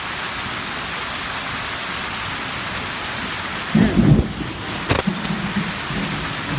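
Heavy rain with hail pouring down, a steady loud hiss of water and ice striking surfaces. About four seconds in there is a short, loud low rumble, followed by a couple of sharp knocks.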